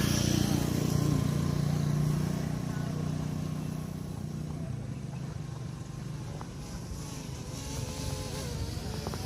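A motor vehicle engine runs steadily nearby with a low hum that slowly fades over the first several seconds, as if it is moving away or easing off.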